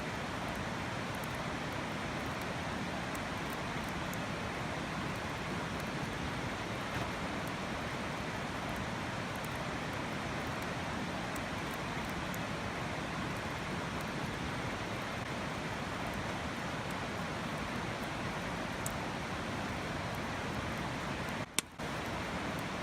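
River water rushing steadily, with a few faint scattered ticks. A brief dropout and click comes near the end.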